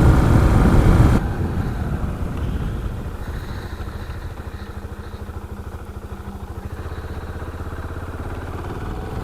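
2014 KTM 690 Duke's single-cylinder engine running under the rider, loud with wind noise at first, then dropping about a second in to a quieter, steady pulsing at low speed.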